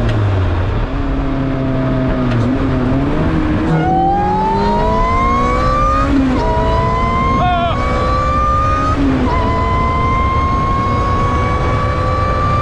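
Supercharged Honda K20 four-cylinder in an Ariel Atom, under hard acceleration. The engine note holds steady, then climbs in pitch from about four seconds in, drops at upshifts about six and nine seconds in, and climbs again each time.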